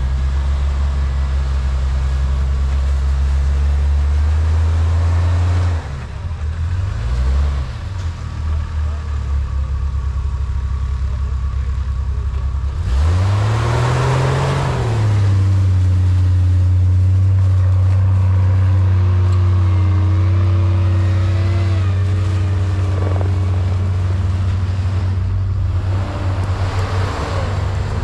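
Engine of a 4x4 running under load while driving off in snow, revving up and easing off about seven seconds in and again at about thirteen seconds.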